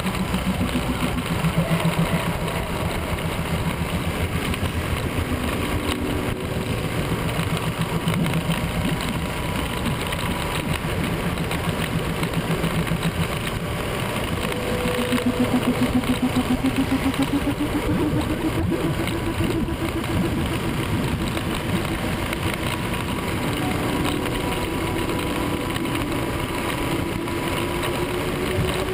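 Motorcycle engine running at road speed under a rush of wind noise. Its pitch climbs about halfway through as the bike speeds up, then holds, and rises slowly again near the end.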